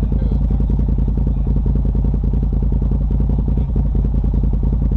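Off-road vehicle's engine idling steadily, with an even, rapid firing pulse.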